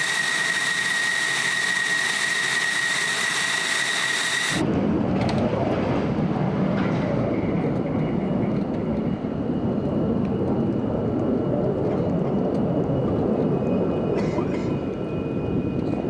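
Jet engine noise: a steady high-pitched whine over hiss, which cuts off abruptly about four and a half seconds in to a low, steady rumble.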